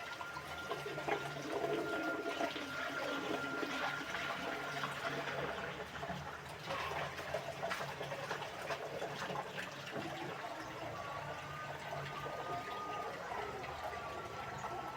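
Water running and splashing steadily, with small clicks and knocks throughout.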